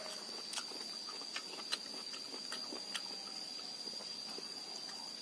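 Chewing thin slices of lime with the rind on: soft crunches and clicks at uneven intervals. Under them runs a steady high-pitched tone.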